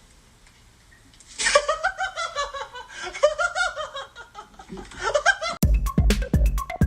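A person laughing in a run of short, broken bursts after a quiet opening second or so. Near the end, electronic music with a steady drum-machine beat cuts in suddenly.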